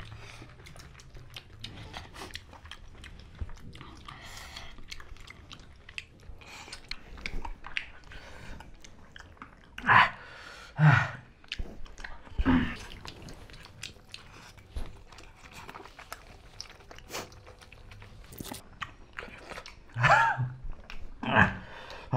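Close-up chewing of people eating rice and meat curry by hand, a steady stream of small wet mouth clicks. A few louder short mouth or voice sounds come about ten to thirteen seconds in and again near the end.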